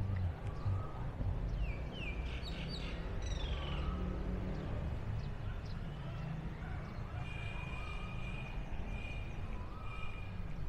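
Birds chirping: a quick run of sweeping chirps about two seconds in, then brief high notes repeated through the second half, over a steady low rumble.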